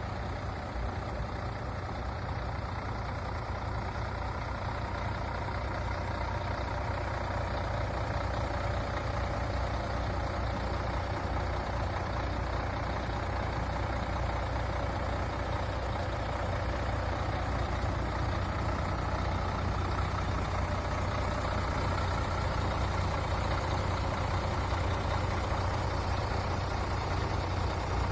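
MAN TGA 26.460 truck's inline-six diesel idling steadily, a deep even rumble.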